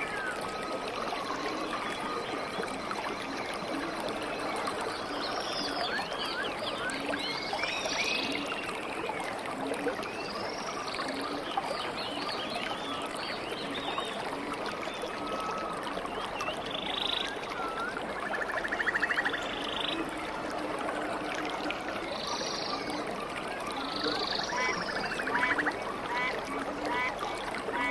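Running stream water with many birds chirping and calling over it; short arching calls come every few seconds.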